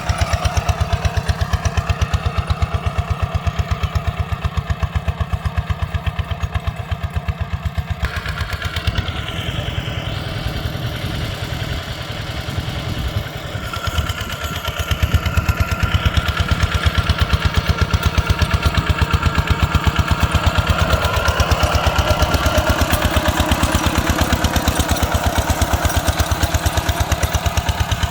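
ZT155 single-cylinder diesel tractor engine running with an even, rapid thump. It gets lighter and less regular about eight seconds in, then picks up strongly again around fourteen seconds in.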